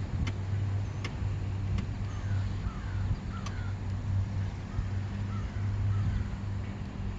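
A steady low hum that pulses on and off, with a few faint bird calls in the middle and several sharp clicks near the start.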